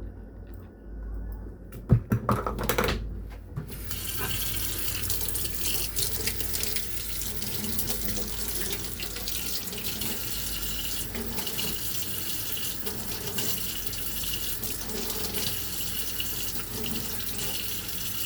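A few sharp knocks, then a kitchen tap is turned on about four seconds in and runs steadily into the sink.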